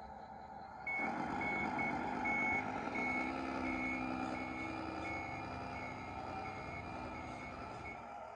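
Radio-controlled model truck's sound module playing a truck engine running, with a reversing beeper joining about a second in and beeping about twice a second until near the end.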